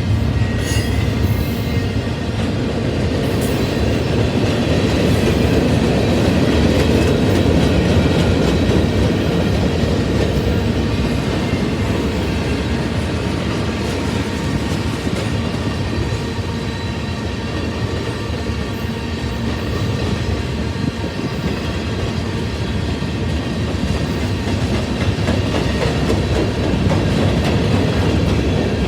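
Mixed freight train's cars rolling past, with steady noise of steel wheels on the rails.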